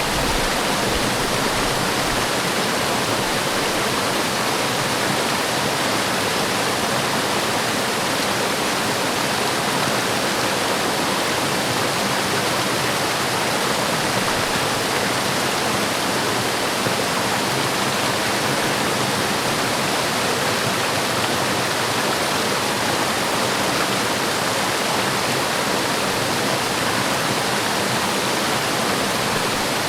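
Forest waterfall: water falling and splashing in a steady, even rush with no breaks.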